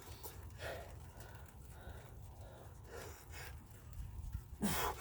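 A man breathing hard in short puffs from the effort of push-ups, with a louder, voiced exhale with a falling pitch near the end.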